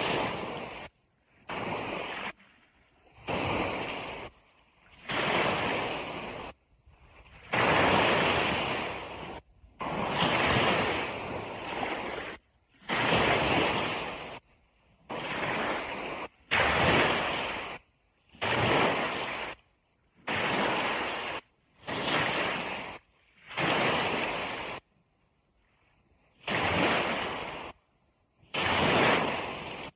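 Ocean surf washing on a beach: a rushing noise that comes in short surges about every two seconds, each cutting off abruptly into a near-quiet gap.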